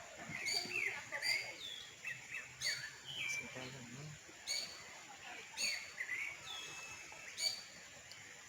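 Birds calling in short, high chirps and whistles that repeat about once a second, some falling in pitch.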